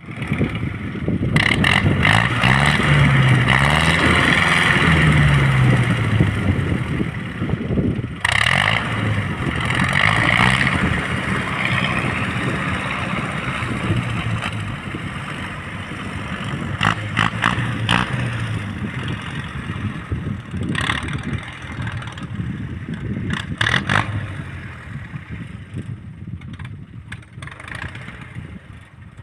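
Tractor engine running under load while working the soil, its pitch wavering up and down, with clattering from the machinery. It dips briefly about eight seconds in and grows gradually fainter toward the end.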